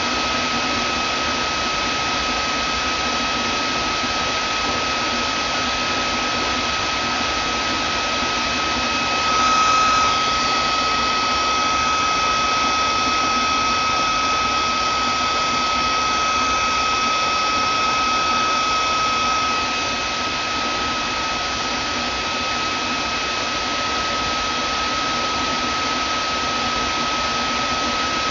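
Vacuum cleaner motor running steadily: a rushing hiss of air with a constant high whine. About a third of the way in it briefly gets louder and a higher whistling layer joins for about ten seconds before dropping away.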